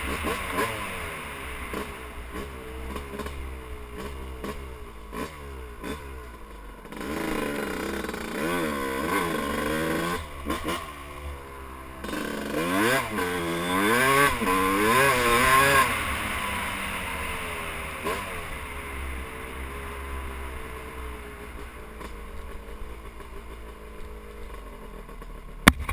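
Yamaha YZ250 two-stroke single-cylinder dirt bike engine revving up and down as it is ridden, pitch climbing and dropping in repeated surges, loudest about two-thirds of the way through, then easing off and fading. The engine is freshly rebuilt and just broken in, with the throttle kept gentle. A sharp click at the very end.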